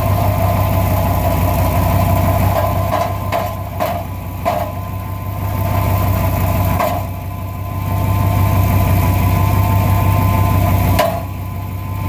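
1999 Dodge Ram engine idling with a rattle from a failing catalytic converter, something loose inside it, coming as a few short metallic clatters over the steady engine hum. It sounds like bad valves, but the owner takes it for a bad catalytic converter.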